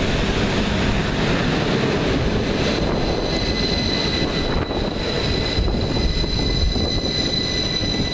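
Passenger multiple-unit train running past at speed, close by, with the steady rumble of wheels on the rails. From about three seconds in, a thin high whine sounds over the rumble and holds as the last carriage passes.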